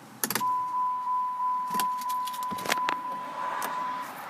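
Car keys jangling and clicking in the ignition of a 2010 Dodge Charger SXT as the car is shut off, with a steady, high electronic warning tone from the car that starts about half a second in and stops cleanly after about three and a half seconds.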